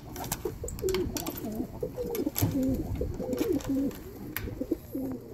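Tippler pigeons cooing, a steady run of low coos that rise and fall one after another, with scattered sharp clicks.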